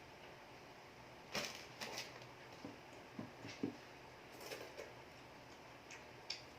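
Soft eating sounds: scattered clicks, smacks and short crunchy noises of someone chewing food, a second or so apart.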